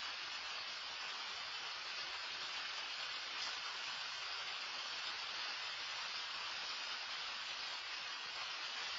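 Rain falling steadily, heard as an even, unbroken hiss.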